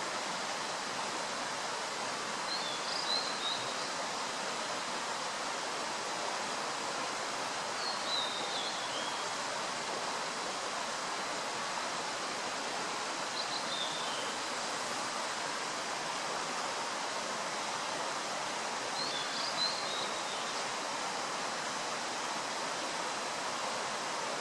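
Male blue-and-white flycatcher singing: four short, high warbled phrases spaced about five seconds apart, over a steady rushing noise of running water.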